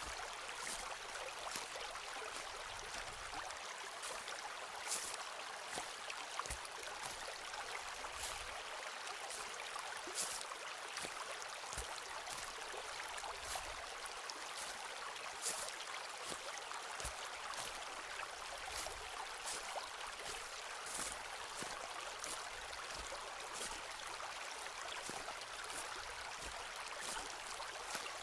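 Footsteps walking through a forest, with irregular sharp crackles and soft low thuds, over the steady rush of a stream.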